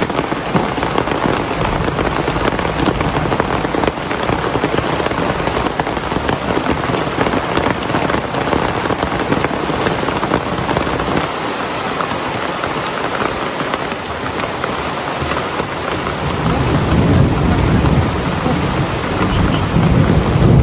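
Heavy rain falling steadily, a dense hiss of drops. A deep low rumble swells over the last few seconds.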